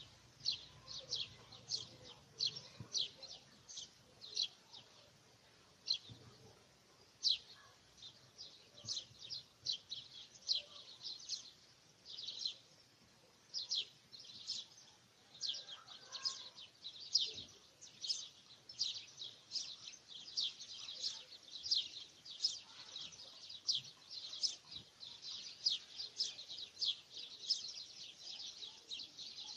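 Small birds chirping without pause: short, high, downward-sliding chirps, a few every second.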